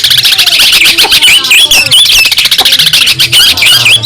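Long-tailed shrike singing a loud, fast chattering song: a dense run of rapid notes mixed with short whistled slurs.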